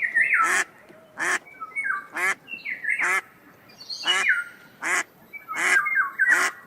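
Ducks quacking repeatedly, about once a second, with higher calls falling in pitch in between.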